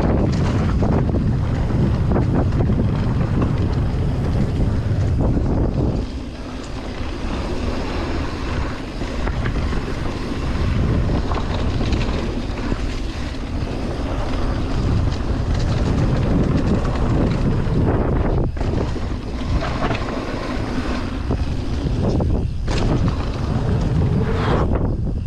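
Mountain bike riding down a trail: wind buffets the microphone over steady tyre and trail noise, with scattered knocks and rattles from the bike.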